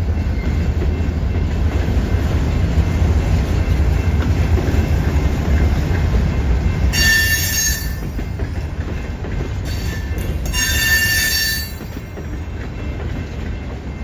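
A Keokuk Junction Railway train rolling past with a steady heavy low rumble. Two bursts of high-pitched wheel squeal come about seven seconds in and again about eleven seconds in.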